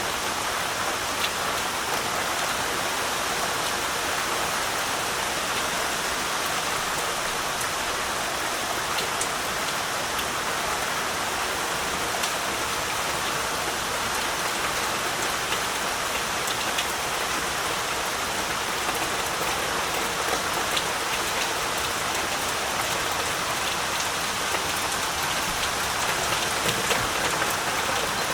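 Heavy rain falling steadily, a dense even hiss with scattered single drops ticking through it.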